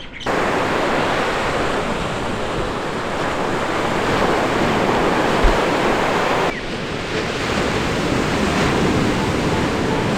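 Ocean surf washing in steadily, with wind buffeting the microphone. Two edited clips: the sound cuts suddenly about six and a half seconds in and carries on slightly quieter.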